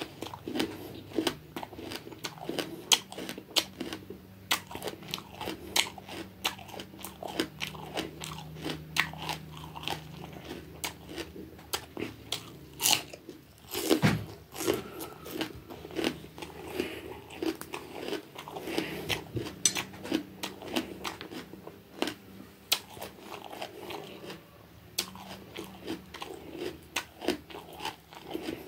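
Close-up crunching and chewing of raw bitter gourd (bitter melon), a dense run of sharp wet crunches, with one louder crunch about halfway through.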